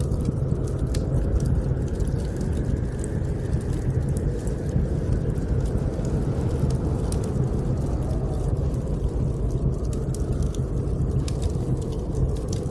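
Blizzard wind blowing as a steady low rumble, with the scattered sharp crackles of a wood fire burning in a fireplace.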